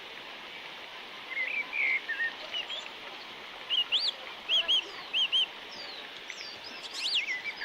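Small birds chirping on and off, short high arched notes, several in quick pairs, over a steady rushing noise of floodwater from a torrent in spate.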